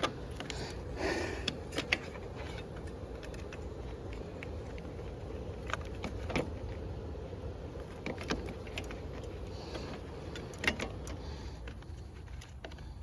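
Scattered light metallic clicks and taps as small engine parts and tools are handled during reassembly of a lawnmower carburettor, over a steady low hum.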